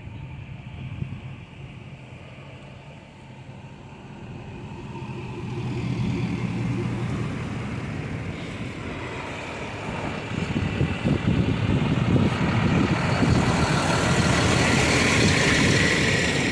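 Highway traffic: an engine running, with tyre and engine noise from a vehicle growing louder over several seconds, loudest near the end, then starting to fade.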